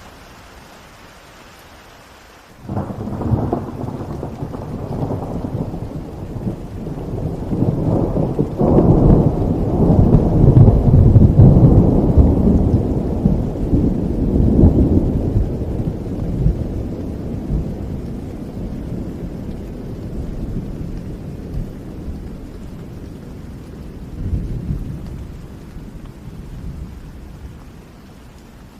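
Thunder rolling over steady rainfall: a sudden low rumble breaks in a few seconds in, swells to its loudest about halfway through, then slowly dies away, leaving the rain hiss.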